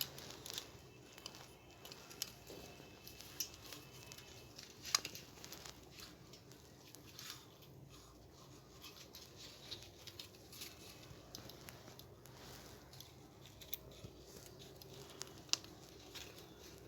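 Faint, scattered clicks and light rustling from small hair dryer parts being handled and fitted by hand during repair, a sharper click about five seconds in and another near the end.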